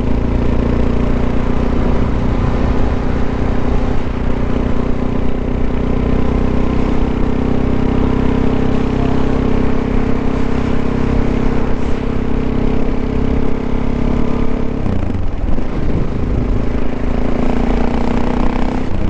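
Suzuki DR-Z400's single-cylinder four-stroke engine running at a steady pitch under way. About fifteen seconds in it drops off briefly, as at a gear change or throttle lift, then rises again.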